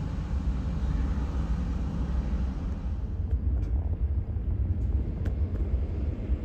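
Steady low rumble of a jet aircraft's engines.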